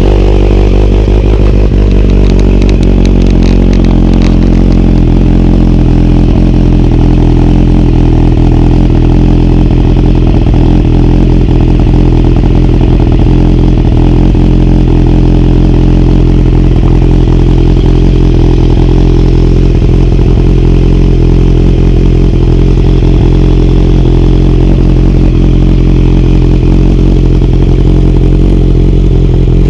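2019 Kawasaki Z900's inline-four engine with a Delkevic full aftermarket exhaust system, idling steadily and loudly just after a cold start while it warms up.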